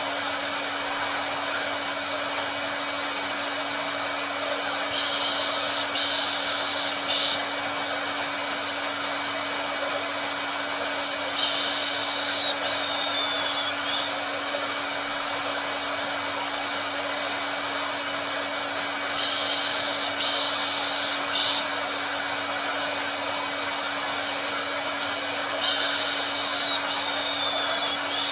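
Hair dryer running continuously, a steady rushing of air over a low motor hum. Every six to seven seconds the high hiss briefly grows brighter for a second or two.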